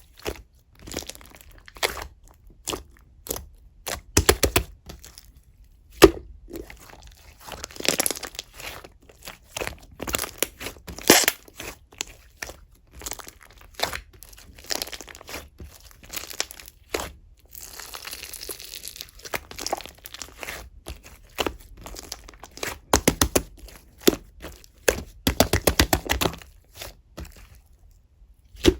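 Chewy clear slime being squeezed, stretched and pressed by hand, giving irregular sticky clicks, pops and crackles, with a few quick runs of small pops.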